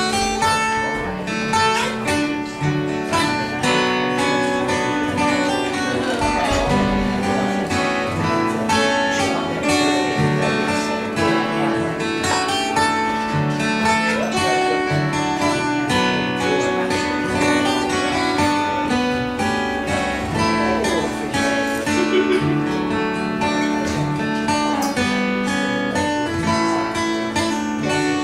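Live acoustic instrumental music from a duo on plucked string instruments, many quick picked notes over sustained chords, steady throughout.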